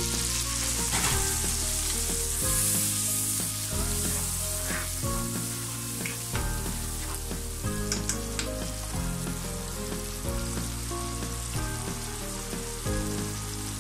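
Sliced onions, green chillies and garlic paste sizzling in hot oil in a pan, with a little water just added to the masala. The hiss is strongest about two to three seconds in, with a few light clicks of stirring near the end.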